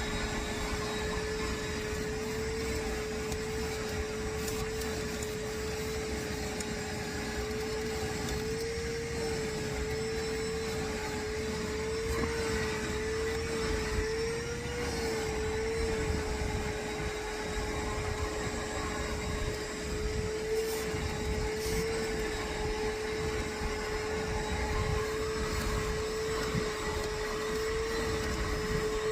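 Vacuum cleaner running steadily, a constant motor whine over a rush of suction noise, its pitch wobbling slightly now and then.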